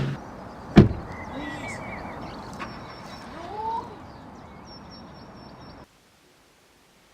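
Background ambience with a steady hiss and a few short bird-like chirps, plus a single thud about a second in. The sound cuts off abruptly about six seconds in, leaving near silence.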